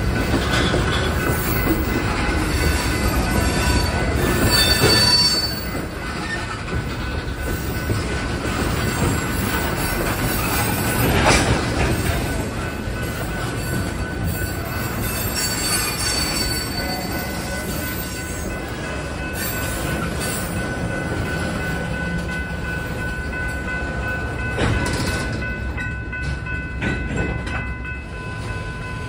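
Freight train of tank cars rolling past a grade crossing: a steady rumble of steel wheels on rail with a thin, steady squeal from the wheels. One sharp clank stands out about eleven seconds in.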